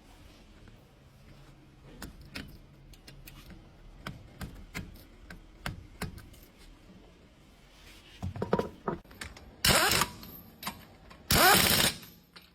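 Light metallic clicks and clinks of tools being handled, then two loud, short bursts of a power tool whose whine sweeps in pitch near the end.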